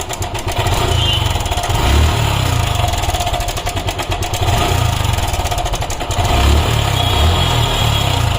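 Suzuki Gixxer SF single-cylinder engine running, swelling louder a few times, with the engine noise that the mechanic traces to the timing chain: the chain is not loose, and he thinks the cam chain tensioner has failed.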